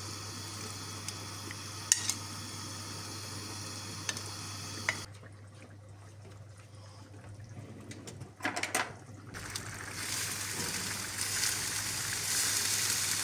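Food frying in a pan, a steady sizzle with a few sharp pops. After a break, a short clatter of utensils on cookware comes about two-thirds of the way in, then a louder steady sizzling hiss builds toward the end.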